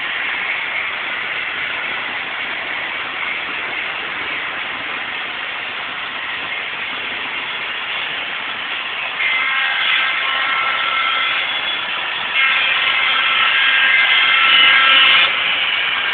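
Model train running on its layout, a steady whirring rush of motor and wheels on track. From about nine seconds in, a long pitched tone sounds twice, each time for about three seconds, the second louder.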